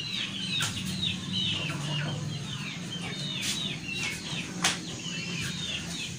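Chickens cheeping: a steady run of short, high, falling peeps, a few each second, over a steady low hum, with a few light knocks, the loudest about four and a half seconds in.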